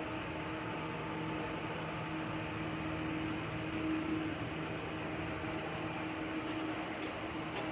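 A steady mechanical hum, like a small motor running, with a few faint ticks near the end.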